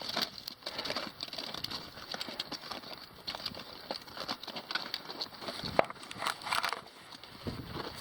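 Hiking-boot footsteps crunching on the trail, a steady run of short irregular steps, with wind hiss on the microphone.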